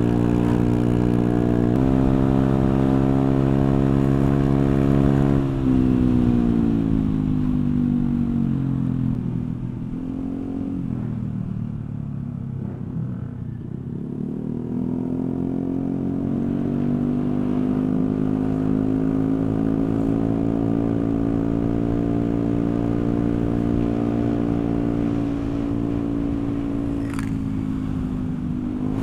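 Honda Vario 125 scooter's single-cylinder four-stroke engine running through a CLD C3 oval racing exhaust with the dB killer removed, so the open pipe is heard in full. Engine speed holds, drops for several seconds to a low note, then climbs again and holds steady.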